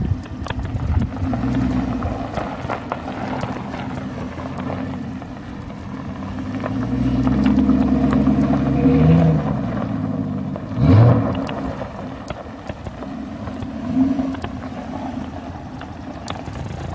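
Dodge Charger R/T's V8 running through a muffler-delete exhaust, building up under acceleration over several seconds. A short loud burst comes about eleven seconds in, and then it settles back to a lower, steady run.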